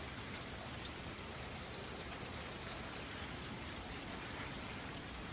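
Rain falling steadily during a thunderstorm, an even hiss of drops with no thunder.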